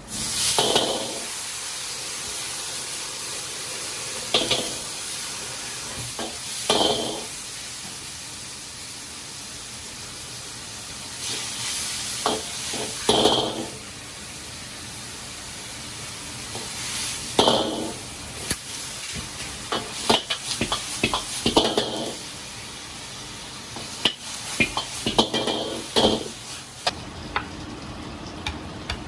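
Frog legs being stir-fried in a pan or wok with a steady sizzle, with repeated scraping and clattering strokes of a spatula against the pan.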